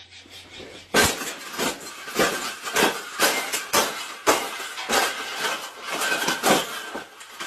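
A metal bird cage being struck and broken apart: about a dozen sharp clanging, clinking impacts, roughly one every half second, beginning about a second in.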